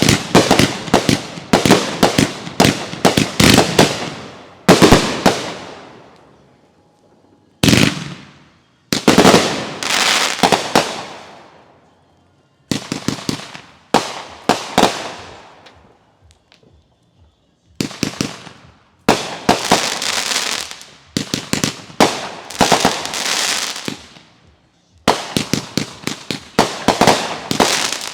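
Consumer fireworks going off in quick runs of many sharp bangs and bursts. Each run lasts several seconds and trails off, with a short pause before the next one begins.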